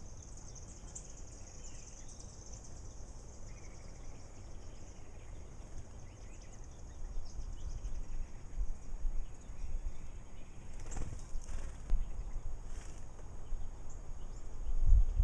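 Outdoor ambience: a steady high insect-like trill in the first few seconds, a few short bird chirps, and a low rumble, like wind on the microphone, that grows louder and gustier in the second half.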